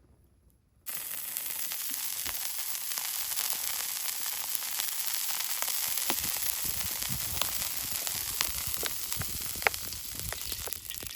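Food sizzling in a hot pan over a campfire, starting abruptly about a second in: a steady dense sizzle with scattered sharp pops and crackles, one louder pop near the end.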